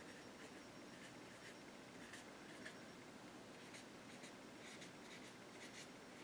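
Faint, soft, scratchy dabs of a paintbrush applying acrylic paint to canvas, a scatter of light irregular taps.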